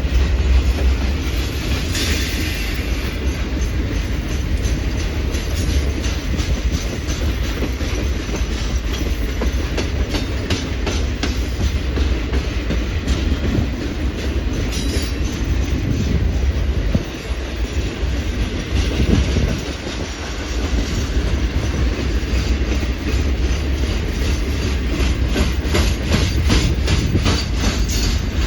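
Norfolk Southern Triple Crown RoadRailer train rolling past, with a steady rumble and wheels clicking over the rail joints. The clicks come thick and fast through the second half.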